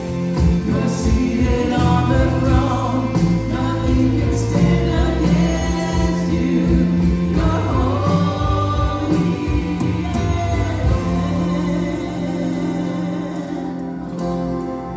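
Gospel music in a church service: a choir singing over an accompaniment of long held low notes.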